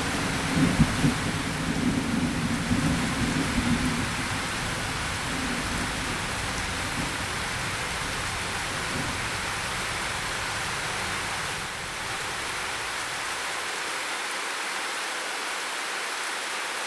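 Steady rain hiss with a low roll of thunder that rumbles through the first few seconds and fades away, leaving only the rain.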